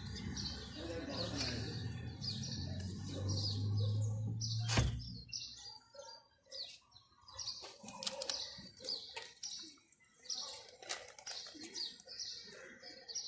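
A small bird chirping over and over, short high chirps about twice a second. For the first few seconds they sit over a steady low hum, which ends with a sharp click about five seconds in.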